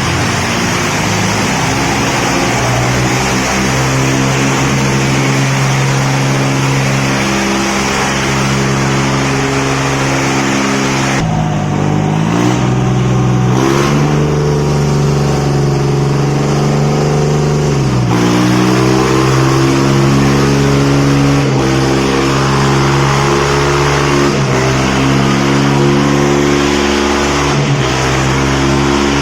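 Diesel tractor engines of a Deutz-Fahr and a Swaraj 963 running hard under heavy load as they pull against each other in a tug-of-war. The engine note sags and recovers about a third of the way in and again just past halfway: the engines lugging down under the pull.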